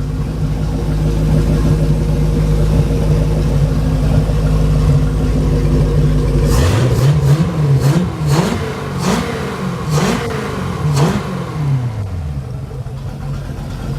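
Mercruiser 5.0 V8 marine engine running out of the boat on a pallet: a steady idle, then from about halfway through several quick throttle blips, each revving up and dropping back, before it settles back to idle near the end.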